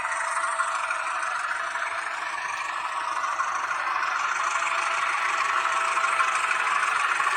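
H0-scale model of a Renfe Alco 313 diesel locomotive running on the layout's track: a steady whirring and rattling of the motor, gears and wheels on the rails, getting slightly louder near the end.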